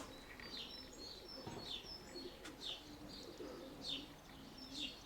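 Domestic pigeons cooing low, now and then, while small birds chirp repeatedly in short, high, falling notes.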